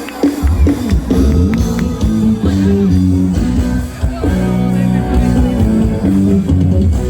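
Live forró band playing loudly with no vocals: heavy bass and drums under sustained melody lines, the full band coming in just after a few sharp hits at the start.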